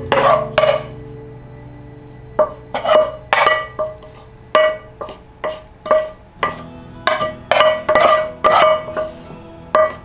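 Cutlery clinking repeatedly and irregularly against a dish, each clink ringing briefly at the same pitch, over background music.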